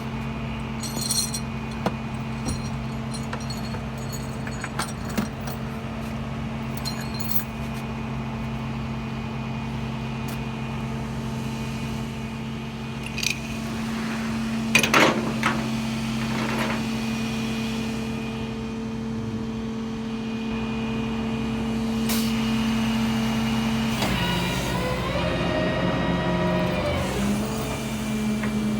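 Tow truck engine running steadily, with scattered metallic clinks. About two-thirds of the way through, the engine note drops and a wavering whine comes in for a few seconds, then the engine settles back to its steady note.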